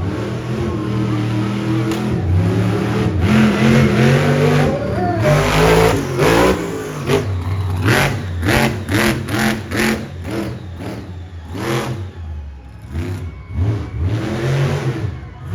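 Monster truck engine revving hard, its pitch climbing and falling. About five seconds in comes a heavy thump, followed by a string of short, sharp bursts of throttle.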